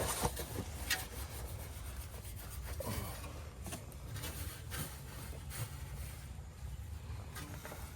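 Rubbing and scraping handling noises with several light clicks, over a steady low rumble.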